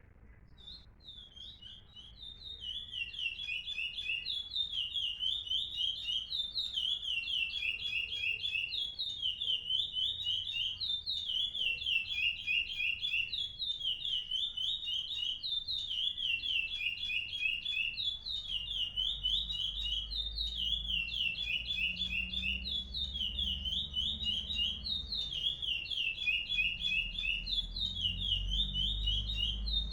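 Caged songbird singing without pause, starting about a second in: quick runs of short chirped notes, repeated over and over. A low rumble sits beneath it in the second half.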